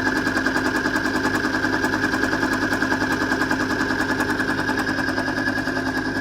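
Timken lubricant load-test machine running steadily under load: a steady whine with a fast, even pulsing as the test ring turns against the test block in additive-treated oil, still running without seizing.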